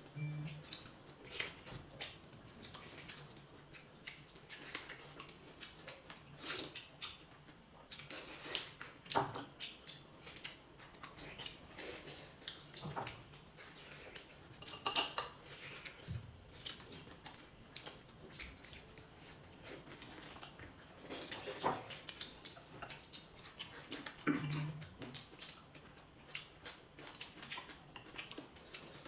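Eating utensils clinking and knocking against bowls and dishes at a meal, in short scattered clicks with pauses between them.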